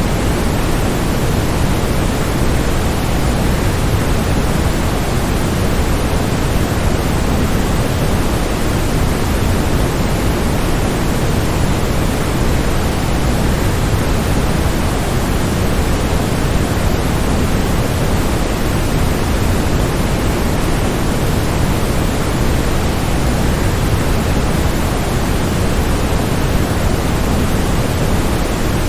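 Waterfall rushing in a steady, unbroken stream of noise, deep and full, with no changes in level.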